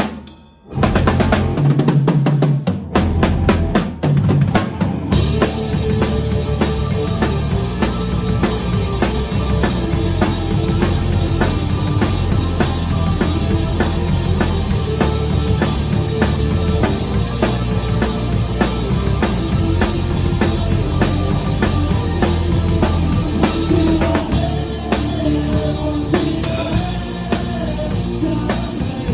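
A band playing music with a drum kit to the fore. Drum hits alone open it, with a short dip less than a second in, and the rest of the band joins about five seconds in.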